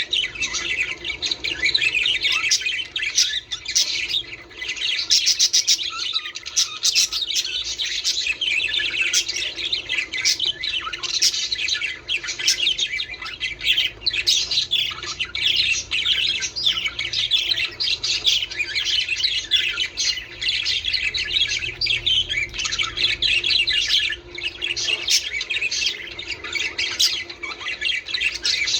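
A flock of budgerigars chattering in a dense, unbroken stream of quick warbles, chirps and squawks, the kind of flock chatter played to encourage budgies to breed.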